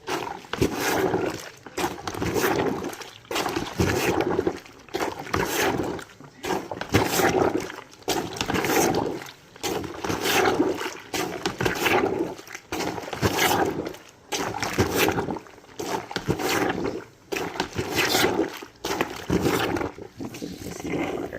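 A hand-plunger portable washing machine being pumped up and down in a bucket of soapy laundry water. Each stroke gives a sloshing, splashing surge, in a steady rhythm of a little under one stroke a second.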